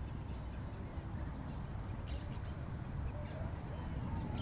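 Birds chirping in short calls, about two seconds in and again near the end, over a steady low rumble.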